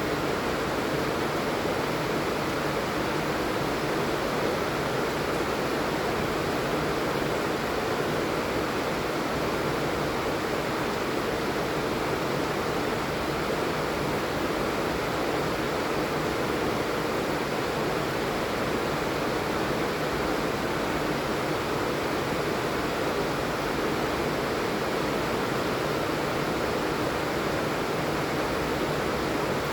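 Steady, heavy rain falling, an even unbroken hiss with no lulls.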